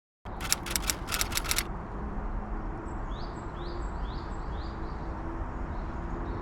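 A quick run of about eight sharp clicks lasting just over a second. Then a bird calls repeatedly outdoors, with short rising chirps about two a second.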